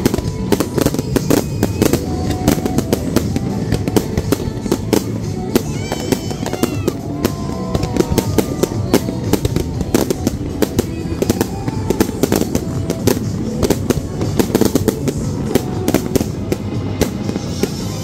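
Fireworks display: many shells bursting at once in dense, rapid bangs and crackling over a low rumble.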